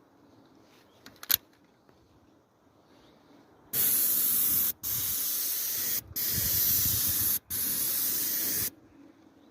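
A spray gun hissing in four bursts lasting a second or so each, with short breaks between them, after a sharp click a little over a second in.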